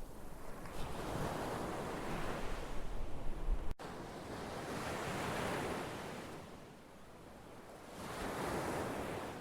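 Ocean surf: waves breaking and washing in, swelling and fading three times. Just under four seconds in there is a sudden break where the low rumble drops out.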